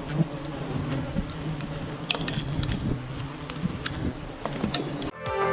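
A mass of honey bees buzzing in a steady low drone with scattered sharp clicks. The buzzing cuts off suddenly about five seconds in, and music begins.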